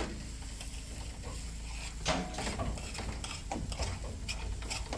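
Irregular crunching and scraping of snow, with scattered clicks.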